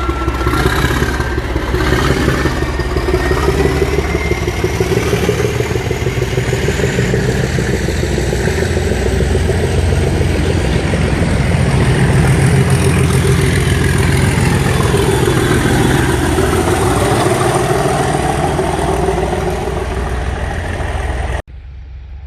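Class 37 diesel-electric locomotive's English Electric V12 engine running steadily and loudly, growing a little louder about halfway through. It cuts off abruptly near the end to a much quieter background.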